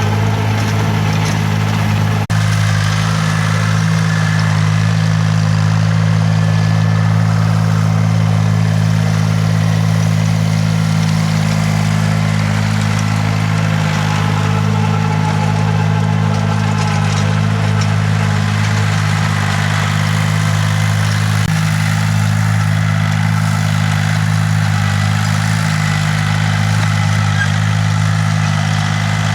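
Farm machine's engine running at a steady, unchanging speed.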